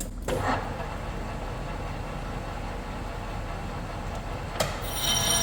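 A metal lathe runs steadily while facing a steel plate. A short knock comes near the end, then a louder cutting sound with several high, steady ringing tones as the tool bites into the face.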